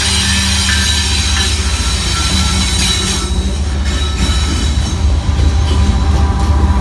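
Union Pacific diesel-electric freight locomotives passing at close range: a loud, steady low engine drone over the rumble of wheels on rail. A thin high squeal sits over the first half and fades after about three seconds.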